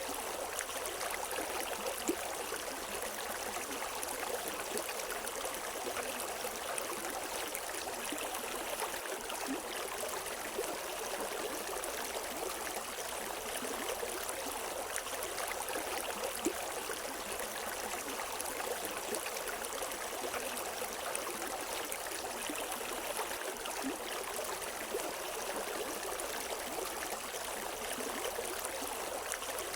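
River water flowing over rocks: a steady rushing and babbling with small splashes, with no birds.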